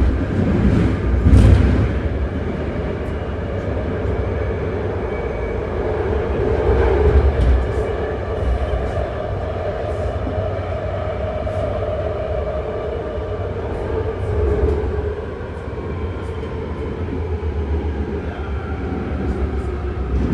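BART train running between stations, heard from inside the car: a steady rumble of wheels on rail with a wavering tone from the drive, and scattered faint clicks.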